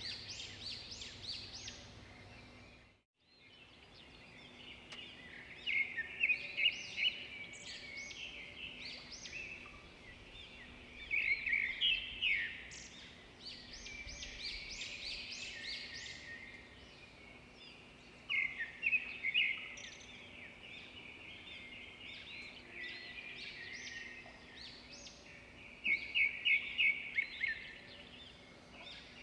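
Swiftlets chirping and twittering in high, rapid trills, with louder clusters about every six to seven seconds, over a faint steady hum. The sound cuts out completely for a moment about three seconds in.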